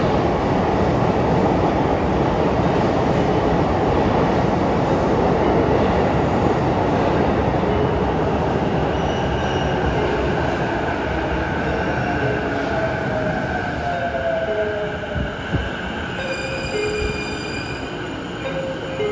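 Electric commuter train pulling into a station platform: its loud running noise slowly dies down as it brakes, with a falling motor whine partway through and high brake squeal near the end.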